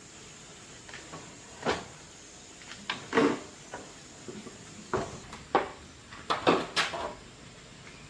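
Irregular knocks and clatter of hard objects being handled, about a dozen short hits in eight seconds, the loudest around the middle and about two-thirds of the way through.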